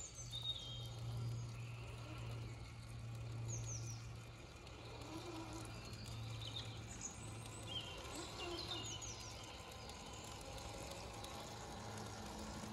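Woodland birds chirping in short, scattered high calls over a low, steady hum.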